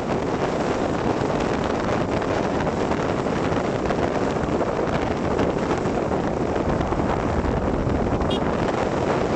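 Steady wind buffeting the microphone while travelling along a highway, with vehicle road noise underneath.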